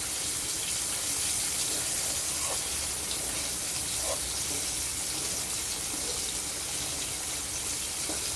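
Flour-coated chicken pieces deep-frying in a pot of oil: a steady sizzle with a few faint pops.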